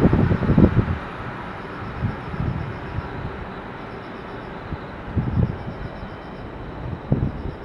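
185 series electric train passing through the station and running away: the loud rumble of its wheels on the rails dies down within the first second. A faint, steady rumble of the departing train follows, with a few brief low swells.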